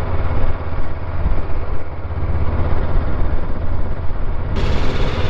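Honda NX500 parallel-twin motorcycle engine running, heard as a steady, loud low rumble. The sound changes abruptly near the end.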